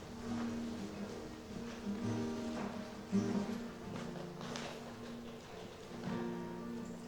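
Quiet instrumental music: a guitar picking single notes that ring on over held chords.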